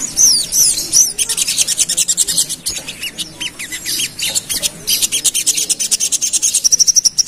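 Spiderhunter (sogon) calling in a rapid, dense chatter of sharp high chirps, many dropping in pitch, the fast 'ngerap' song used to provoke rival birds. Near the end it breaks into a quick, even trill.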